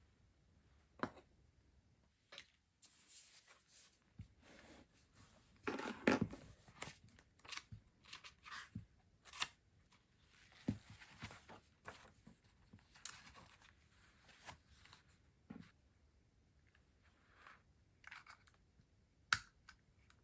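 Stationery packaging being handled and opened by hand: rustling and tearing of wrapping with scattered small clicks and taps, the loudest rustle about six seconds in.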